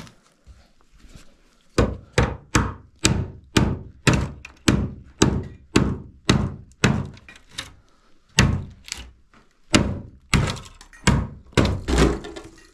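Repeated heavy blows on wood, about two a second, starting a couple of seconds in, with a short break near the middle before the strikes resume.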